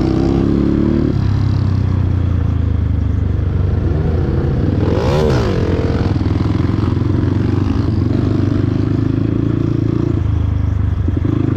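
Dirt bike engine running steadily, with one rev that rises in pitch and falls back about five seconds in.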